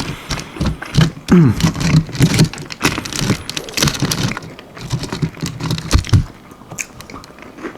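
Close-up chewing of crunchy almond-flour-breaded chicken wings: many short, crisp crackles of the breading breaking between the teeth.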